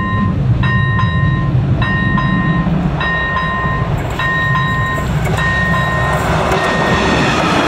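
Electronic level-crossing bell (AŽD ZV-01) ringing in repeated chimes, about one every 1.2 s, over the low rumble of an approaching ČD class 854 diesel railcar. The train noise swells near the end, partly drowning out the bell.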